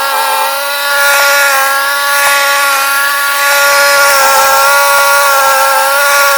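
Ariens 624E snowblower's engine running steadily, its pitch sagging slightly now and then.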